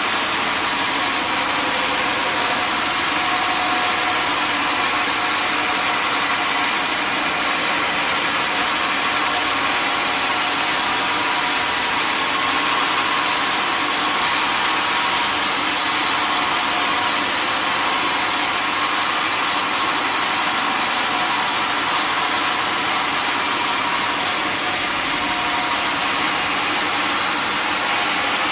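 Sawmill machinery running with a steady, even noise throughout.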